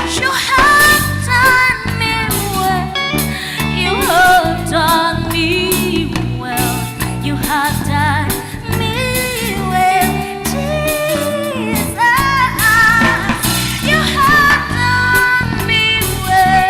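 Live gospel band playing, with voices singing a melody over guitar, bass and drums keeping a steady beat.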